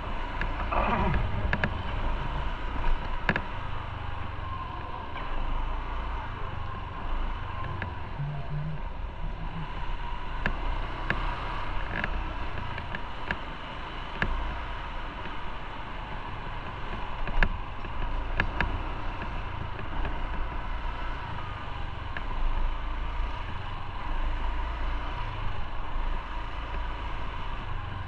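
Motorcycle on the move in road traffic: engine and road rumble with a steady whine above it, and a few short clicks.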